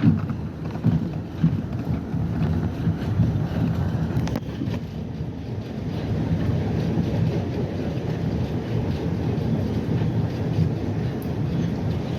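R68 subway train running, a steady low rumble with a few faint clicks.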